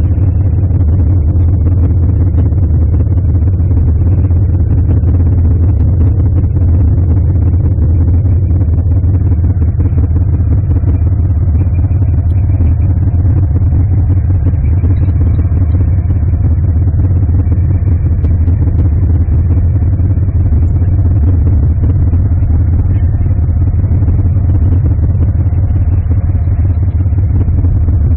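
Steady low rumble of a car's engine and road noise while driving, heard from inside the cabin, with no change in pace.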